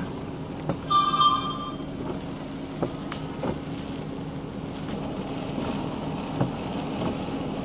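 A car engine idling with a steady low hum under rushing background noise, and one short electronic beep about a second in.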